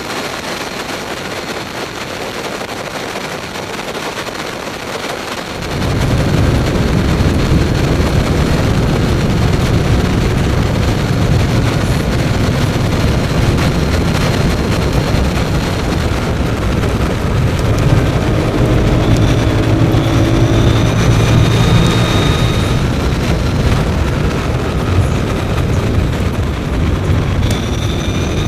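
Onboard sound of the Mavizen TTX02 electric racing motorcycle at speed: a heavy rush of wind and road noise with the thin whine of its electric motor. About six seconds in, a loud low rumble sets in suddenly and stays. Later the whine rises and falls in pitch as the bike speeds up and slows.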